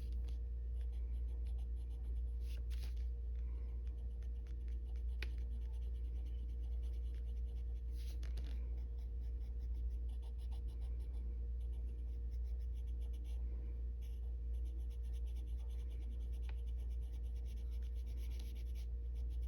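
Colored pencil scratching on paper in quick, repeated short strokes, shading and feathering out colour. A steady low hum runs underneath and is louder than the strokes.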